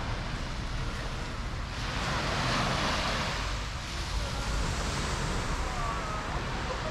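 Surf washing onto a beach, with one wave breaking and rushing in about two seconds in, over wind rumbling on the microphone.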